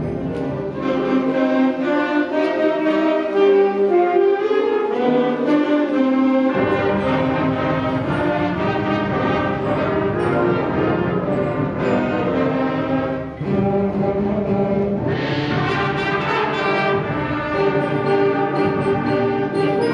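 Middle school concert band playing, with the brass to the fore. The band drops out briefly about thirteen seconds in, then comes back in full.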